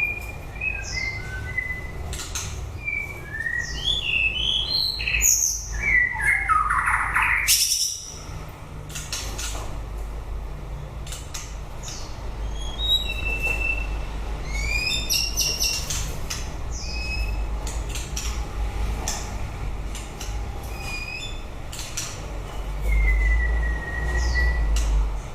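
White-rumped shama singing: a varied run of short whistled notes that slide up and down in pitch, mixed with sharp clicking notes, and a long falling phrase about a quarter of the way in. A steady low rumble runs underneath and grows louder near the end.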